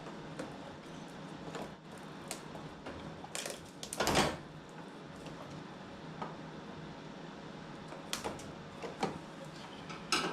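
Scattered clicks and knocks of hands working at the Mustang's engine-bay wiring harness connectors, with a louder clatter about four seconds in and a few sharp clicks near the end.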